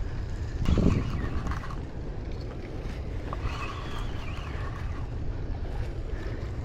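Wind rumbling across the microphone, with a stronger gust about a second in.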